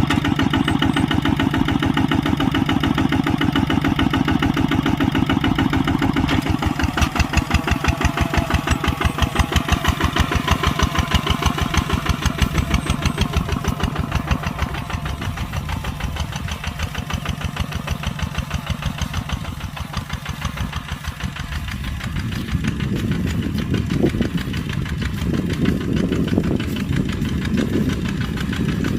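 Kubota tractor's diesel engine running with a steady, even pulse. In the last several seconds a rougher low rumble joins in.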